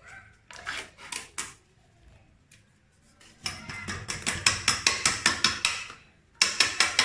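A utensil clicking against a bowl as a batter of egg, cornstarch and yogurt is mixed by hand: a few scattered knocks, then a fast, even run of clicks at about five a second.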